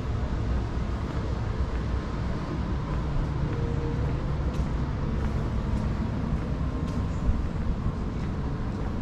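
Steady low rumble of city street ambience with vehicle traffic, with a few faint ticks and a brief louder knock about seven seconds in.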